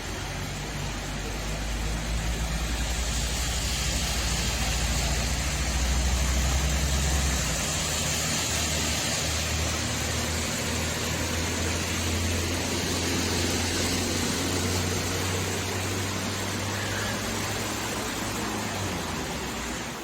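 A motor vehicle's engine running steadily under a broad hiss; the engine note shifts about seven seconds in.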